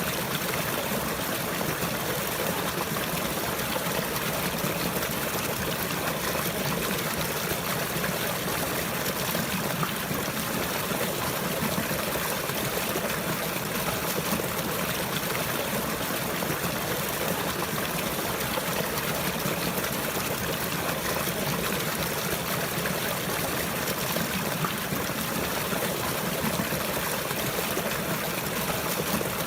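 Water flowing and trickling, a steady, unbroken hiss with no single splashes standing out.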